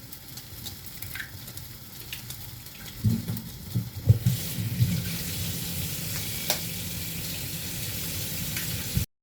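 Food frying in a hot pan: a steady sizzle that grows louder about four seconds in, with a few sharp clicks. The sound stops abruptly near the end.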